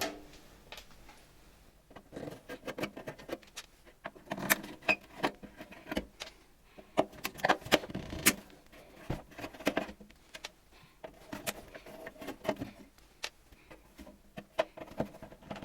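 Screws being turned out of the rear cover of an old Dr. Burg Klimarex-Kamin fan heater with a screwdriver: irregular small clicks, scrapes and light metallic taps.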